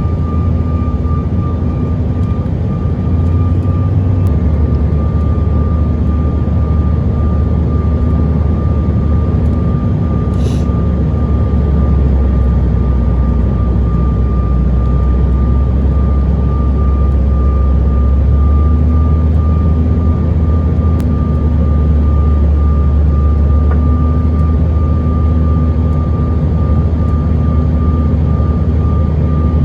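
Steady jet engine drone and airflow rumble inside the cabin of a Bombardier CRJ900 regional jet, with a constant high engine tone over the deep rumble.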